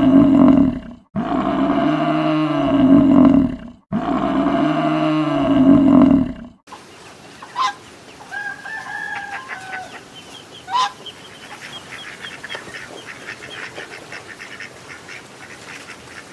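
A long, loud animal call sounds three times in a row, each one the same, as if repeated. It is followed by a much quieter stretch with two sharp clicks and a fast run of faint ticks or chirps.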